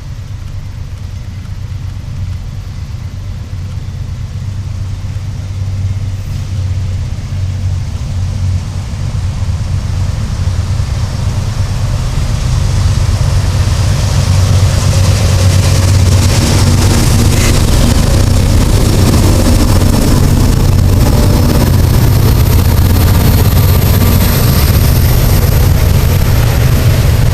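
Heavy engine rumble that builds over about fifteen seconds and then holds loud and steady, with a faint high whine near the end.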